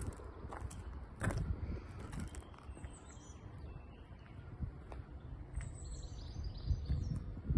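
Outdoor ambience: a steady low rumble with a few short knocks, and small birds chirping a few times, in short falling calls.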